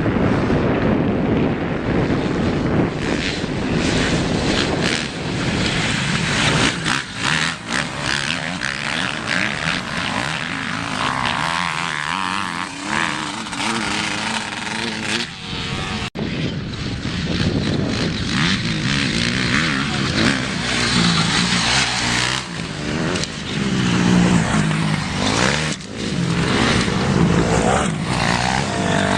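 Several motocross bike engines revving and running on the track, their pitch rising and falling as the riders work the throttles.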